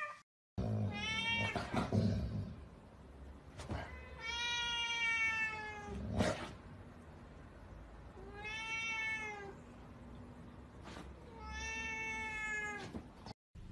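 Kitten meowing four times, long drawn-out high calls a few seconds apart, each sliding down in pitch at the end.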